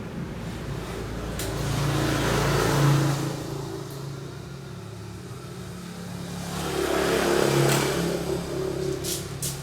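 Passing road traffic: two vehicles go by, each swelling and fading over a few seconds, over a steady low hum, with a few short clicks near the end.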